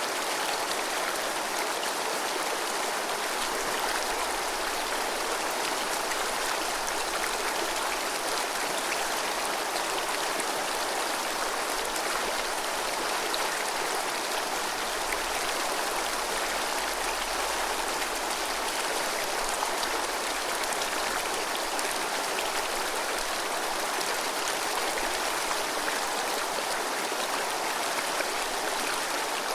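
Clear, snowmelt-fed mountain river flowing over rocks, a steady, full rushing and babbling of water.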